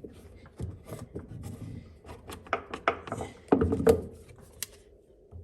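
Hands refitting rubber hoses to the fuel pump assembly: a run of short clicks, knocks and rubbing, loudest about three and a half seconds in.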